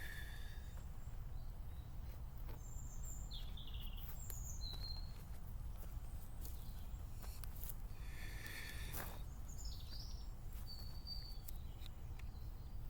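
Small birds chirping in short, high calls, several in two clusters, over a steady low rumble of outdoor background noise. A brief hiss comes a little past halfway.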